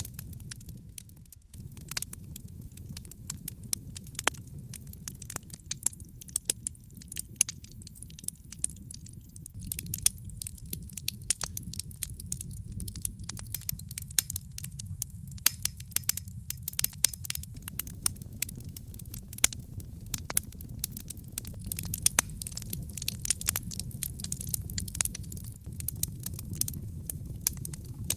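Wood fire burning in a fireplace: irregular sharp crackles and pops, thick in some stretches and sparse in others, over a steady low rumble of the flames.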